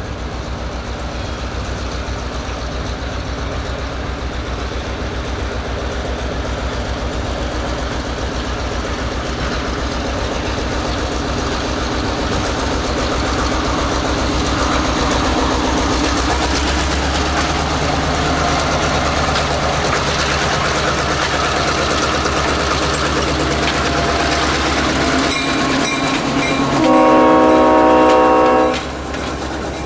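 Diesel locomotive rumbling as it approaches and passes at low speed, getting louder over the first half, followed by the passenger coaches rolling by with wheels clacking over the rail joints. Near the end the locomotive's horn gives one loud blast of about two seconds.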